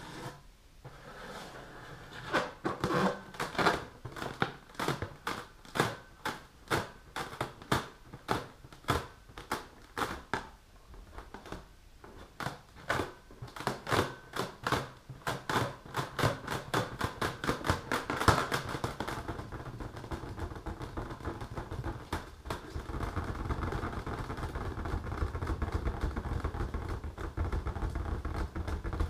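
Long fingernails tapping and scratching on an inflated rubber balloon: a fast run of sharp clicks, then a steadier rubbing from about two-thirds of the way in.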